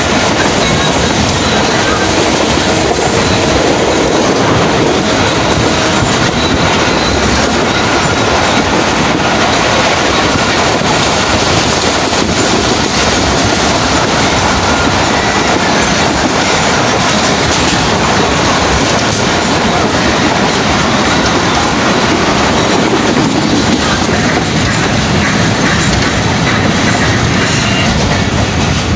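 Karachi Circular Railway passenger train running along the track, heard from on board: a loud, steady rolling noise from the wheels and carriage.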